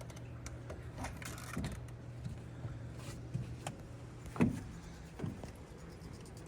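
Light clicks and small knocks as a broken in-tank fuel pump assembly, pulled apart from hanging loose in a fuel cell, is handled and inspected, with a few short squeaks, the loudest about four and a half seconds in, over a steady low hum.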